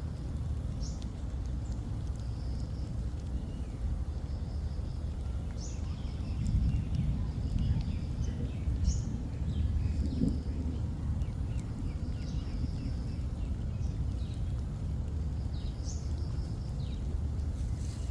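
Small birds chirping: short buzzy trills and quick rising chirps every couple of seconds, over a steady low outdoor rumble.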